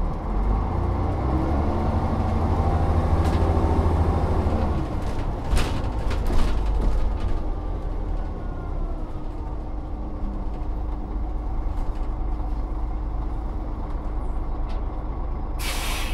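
Volvo Olympian double-decker bus's diesel engine pulling hard for the first few seconds, then easing off about five seconds in and running on steadily, with a few rattles. A short sharp hiss of air near the end.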